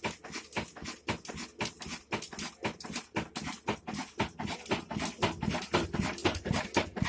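Stationary diesel oil engine of the desi Ruston type running steadily, its sharp, even beats coming about four to five a second.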